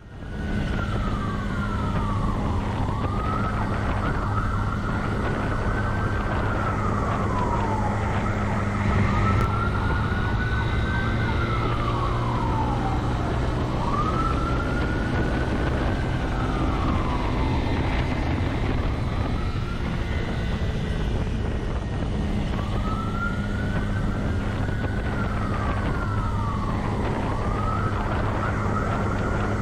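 Police siren wailing, its pitch rising slowly and then falling in a cycle about every five seconds, over steady engine and road noise from the pursuing patrol car.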